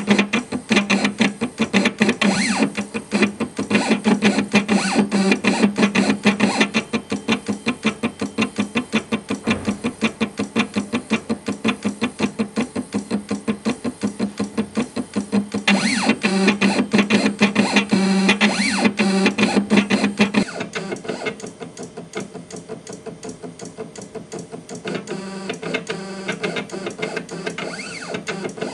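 Guitar background music over a home-built CNC laser engraver, whose stepper motors buzz in quick, even pulses as the head sweeps back and forth engraving an image line by line. About two-thirds of the way through the music drops out and the level falls, leaving the machine's pulsing drive sound.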